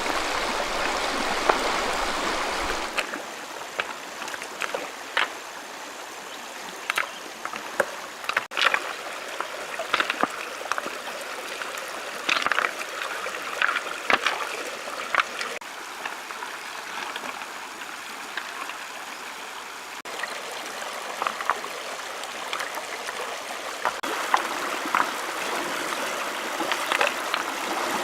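Shallow stream water running and trickling steadily, with scattered short sharp clicks and knocks throughout.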